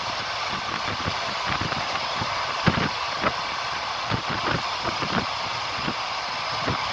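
Train running along the track: a steady rumble and hiss with irregular knocks and clicks of the wheels over rail joints, one sharper knock a little under three seconds in.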